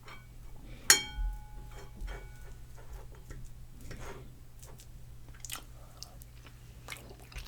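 Close-up chewing and mouth sounds of someone eating pulled pork with harissa paste. About a second in there is a single sharp, ringing clink of a utensil on a plate.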